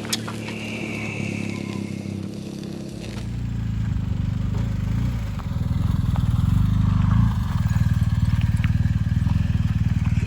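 Motorcycle engine running at a steady low note, growing louder about three seconds in and louder again around six seconds in.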